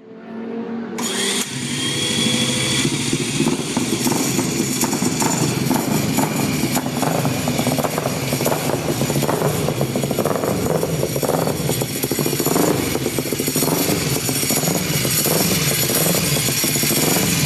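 Motorcycle engine starting up and then running, its revs rising and falling.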